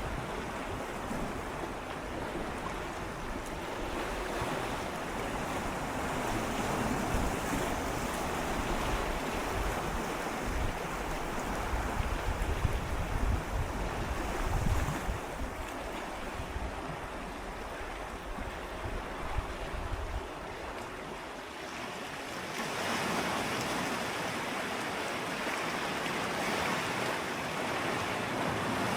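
Gentle sea waves swirling and lapping against shoreline rocks close up, a continuous wash of water. A low rumble swells through the middle and stops about two-thirds of the way in, and the hiss of the water brightens again soon after.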